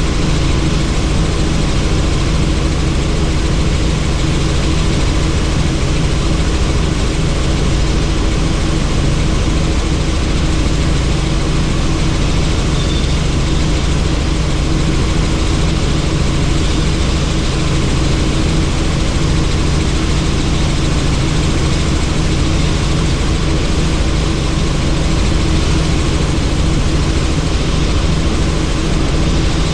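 Helicopter in flight heard from inside the cabin: steady engine and rotor noise with a constant hum and rushing air, unchanging throughout.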